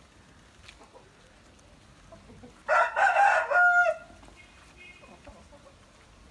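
A Parrot Beak Aseel rooster crowing once, a call of a little over a second that ends on a held note.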